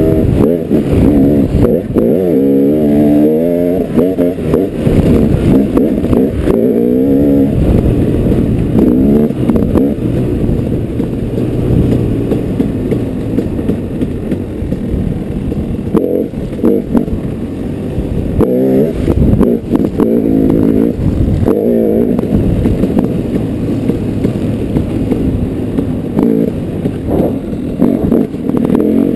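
Dirt bike engine being ridden, its pitch rising and falling again and again as the throttle opens and closes.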